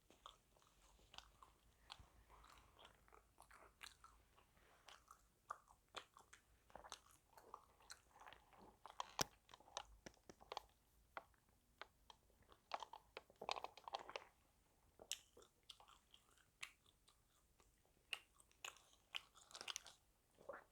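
Chewing and biting on crunchy fried food from a KFC burger-and-chicken set, with many irregular crisp crunches and wet mouth sounds.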